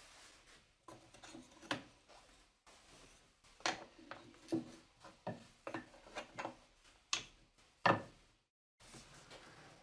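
Irregular light knocks and clicks of things being handled, about a dozen over several seconds, the loudest near the end.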